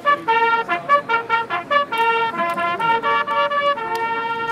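Brass music: a trumpet-led melody of short notes, settling into one long held note near the end.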